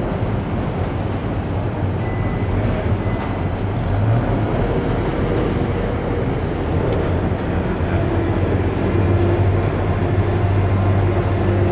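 A John Deere skid steer's diesel engine running steadily as the machine is driven, growing louder and working harder from about two-thirds of the way in.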